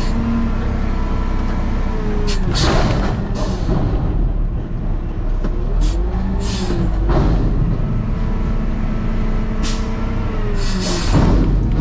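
Peterbilt truck engine running under way, its note rising and falling twice as it pulls and shifts, with several short hissing bursts in between.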